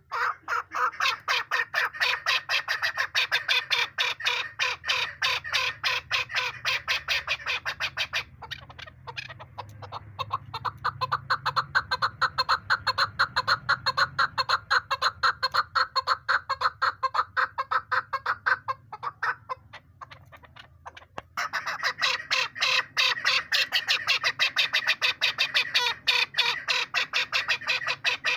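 Chukar partridge calling: a fast, unbroken run of short clucking notes, many to the second. The calling thins about eight seconds in, nearly stops around twenty seconds in, then picks up again just as densely.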